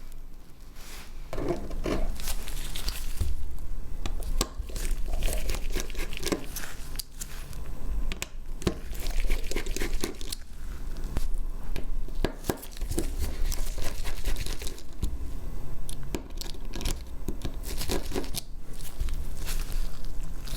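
Crinkling, tearing handling noises with many small clicks, from hands working on a smartphone during disassembly.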